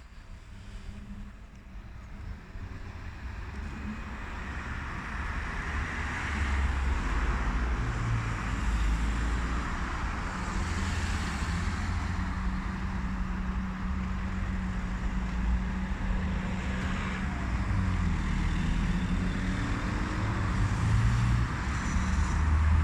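Heavy truck engine running and approaching, growing louder over the first several seconds, then holding a steady low rumble.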